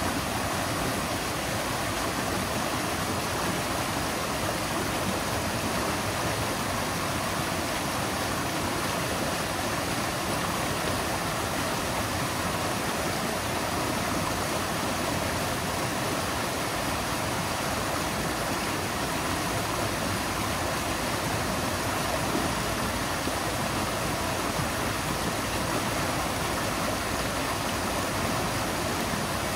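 River water flowing, a steady, unbroken rush with no change in level.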